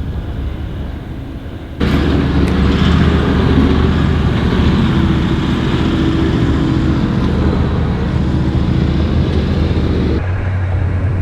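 A vehicle driving: a steady low engine drone under loud road and tyre noise. It jumps abruptly louder about two seconds in and drops back suddenly near the end.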